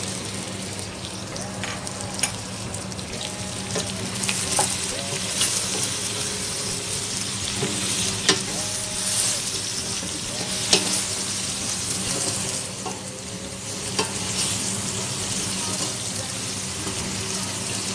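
Meat, onion and garlic sizzling in oil in a stainless steel pot while being stirred with a wooden spoon. The spoon clicks against the pot now and then.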